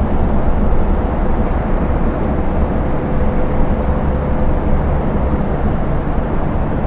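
Semi-truck driving at motorway speed: a steady low engine drone and tyre and road rumble, with a faint steady whine for a couple of seconds in the middle.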